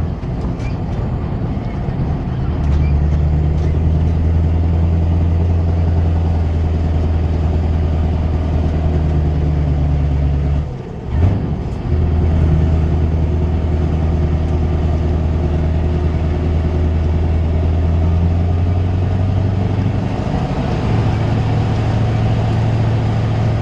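Scania 164 480's V8 diesel on a straight exhaust, running steadily. It dips and gives a brief burst about halfway through, and its pitch steps up near the end.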